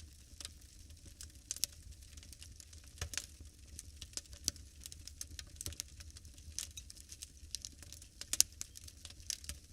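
Wood fire crackling in a fireplace: irregular snaps and pops over a low rumble, with one louder pop late on.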